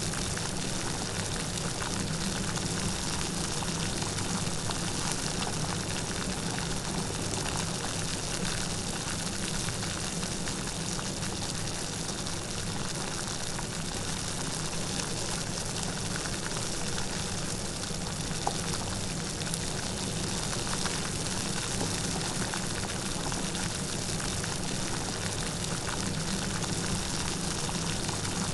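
Steady light rain falling, an even hiss of many small drops with faint scattered patters.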